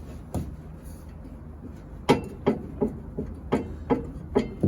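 Metal parts knocking and clanking as they are handled: one sharp knock just after the start, then a run of about six short knocks in the second half.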